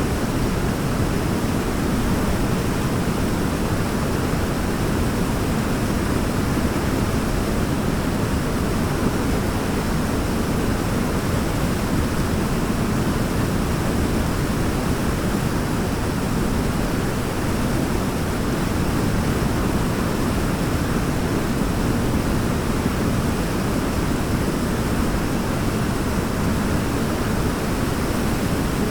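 Waterfall rushing in a steady, unbroken roar of water noise, deepest and strongest in the low range.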